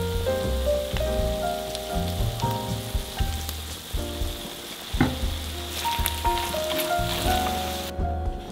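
Fried rice sizzling in oil in a hot wok as it is stirred with a wooden spoon, with a sharp knock about five seconds in. The sizzle cuts off near the end, leaving soft background music that plays throughout.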